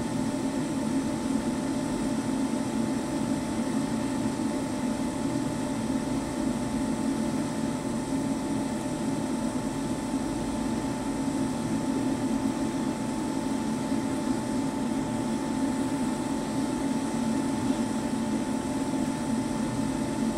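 Oil-fired furnace burner and its air blower running: a steady rushing noise with a constant hum.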